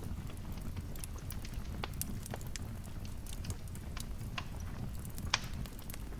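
Wood fire crackling over a steady low rumble, with irregular sharp pops and one louder pop a little after five seconds in.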